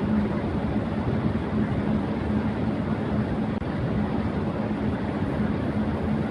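Electric fan running at high speed: a steady rush of air with a low hum underneath.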